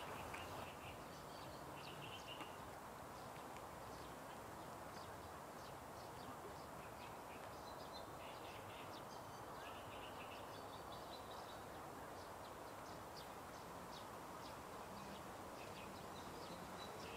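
Birds chirping, short calls scattered throughout, over a faint steady background noise of outdoor ambience.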